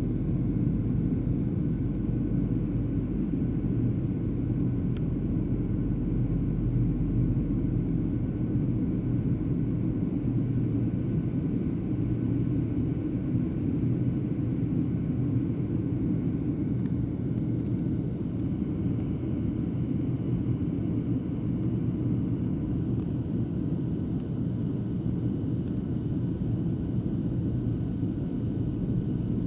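Steady airliner cabin noise in cruise flight: the jet engines and the airflow over the fuselage making an even, low rumble.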